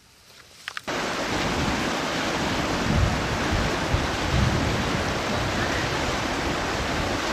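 A few faint clicks, then a loud steady rushing noise cuts in about a second in, with a few low rumbling surges around the middle.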